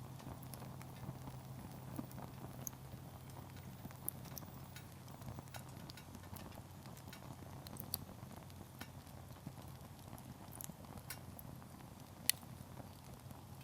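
Wood campfire crackling, with sparse irregular pops from burning firewood and one louder pop about twelve seconds in.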